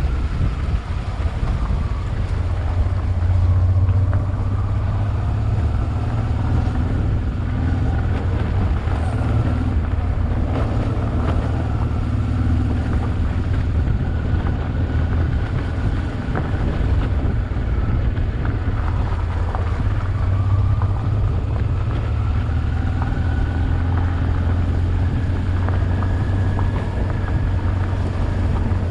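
Honda Transalp XL 600V motorcycle's V-twin engine running steadily while riding, its note drifting slightly up and down with the throttle.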